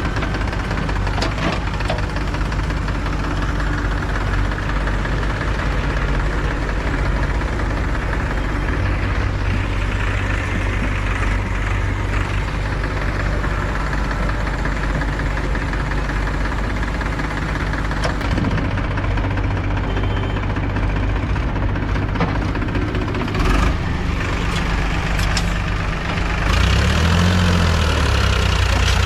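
Diesel engine of a JCB 3DX backhoe loader running under work while loading mud, with a few brief knocks. Near the end the engine gets louder and its pitch swings up and down as it is revved.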